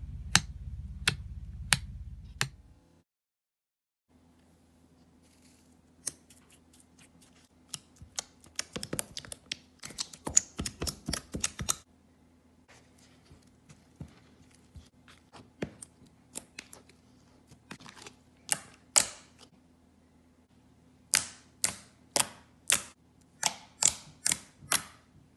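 Slime being poked and squeezed with fingers, giving sharp clicks and pops in quick runs, with a short silent gap near the start; near the end the clicks come about twice a second.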